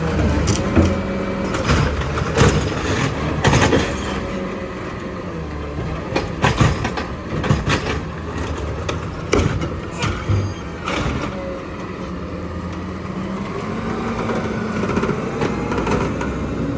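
Garbage truck engine running, with repeated sharp metal clanks and knocks from the collection work, and a rising engine or hydraulic tone near the end.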